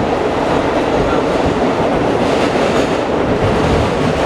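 New York City Subway A train in motion, heard from inside the car: a steady, loud running noise of wheels on rails.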